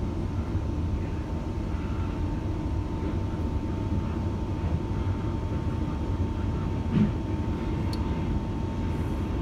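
Steady low rumble of a commuter train running along the line, heard from inside the carriage, with a constant thin high whine over it. A single knock sounds about seven seconds in.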